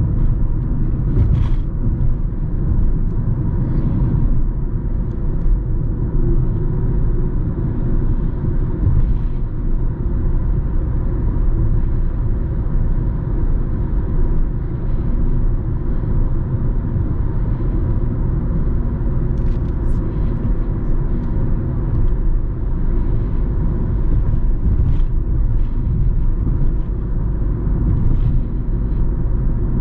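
Steady low rumble of factory machinery, with a faint constant hum and a few small clicks scattered through it.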